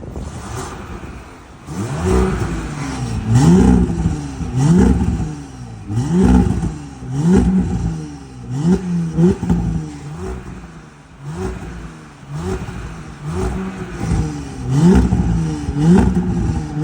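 Exhaust of an Audi A6 C8's 3.0 turbocharged V6, with a muffler shop's exhaust system, revved in quick blips about once a second, around a dozen times. A quieter steady idle is heard before the first rev.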